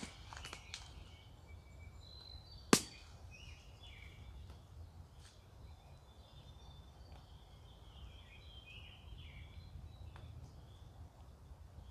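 Faint birdsong from several short, repeated chirps, with one sharp click about three seconds in.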